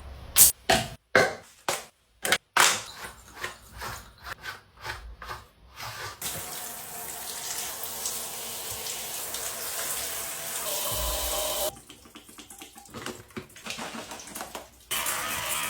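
Running water from a bath shower spraying steadily, after a run of short knocks and splashes; the spray stops for about three seconds near the end, then starts again.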